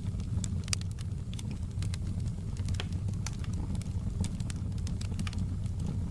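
Outdoor campfire burning: a steady low rumble of flames with frequent sharp crackles and pops of burning wood.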